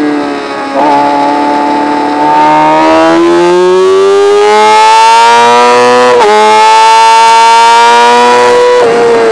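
Racing motorcycle's engine under throttle on track: the throttle opens about a second in and the engine note climbs steadily, dips briefly with an upshift about six seconds in, climbs again, and drops near the end.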